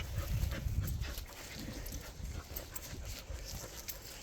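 A dog close by, making low, quiet sounds and moving about, with faint light clicks.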